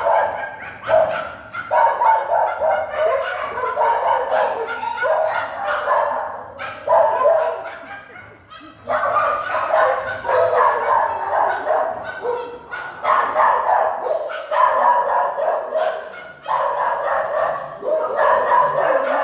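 Many kenneled shelter dogs barking at once, a loud, continuous overlapping chorus of barks with a few brief lulls.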